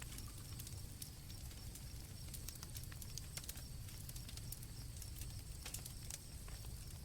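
Campfire crackling with irregular pops over a low steady rumble, with crickets chirping steadily at a high pitch.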